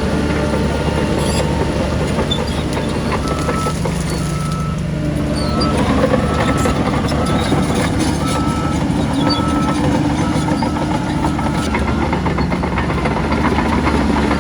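Diesel engine of heavy earthmoving machinery running under load, a steady low drone that rises about five seconds in. A reversing alarm beeps about once a second for several seconds in the middle.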